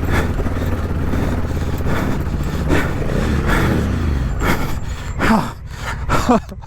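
Big adventure motorcycle's engine running under load on a rough off-road track, with wind and track noise on the microphone. In the last second or two the rider lets out short strained groans and gasps.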